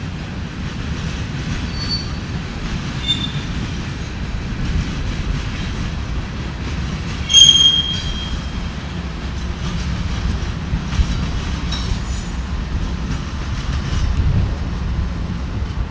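Empty steel hopper cars rolling past with steady wheel and rail noise and short, high wheel squeals, the loudest about halfway through. Near the end the two rear GE distributed-power locomotives, an ES44AC and an AC44CW, run past, adding a deeper low rumble.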